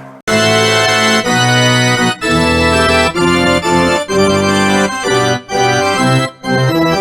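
Organ playing a run of sustained chords, a new chord about every second with short breaks between them.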